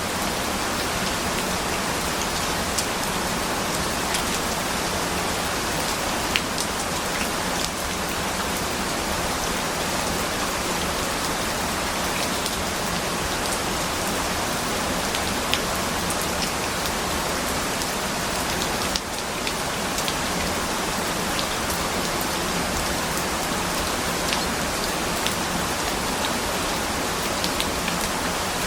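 Steady rain: a dense, even hiss of rainfall with scattered individual drops ticking through it, and a brief dip in level about nineteen seconds in.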